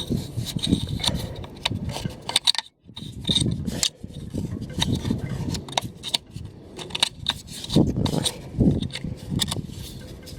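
Hands working on the MAP sensor and its electrical connector in the engine bay: irregular rubbing, scraping and small clicks of plastic and metal parts.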